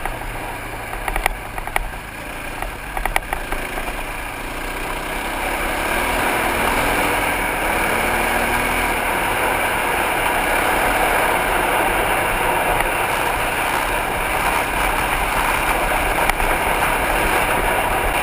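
Single-cylinder dual-sport motorcycle engine running under way on a trail, mixed with wind noise on a helmet-mounted camera. A few sharp knocks come in the first few seconds, and the engine grows louder about five seconds in as the bike picks up speed.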